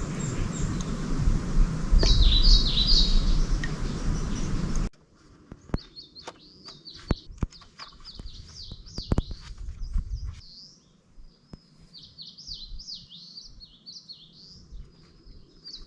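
Small birds chirping and singing in a forest, in repeated high, quick phrases. For the first five seconds a loud low rumbling noise lies under the birds, then it cuts off abruptly, leaving the birdsong and a few scattered sharp clicks.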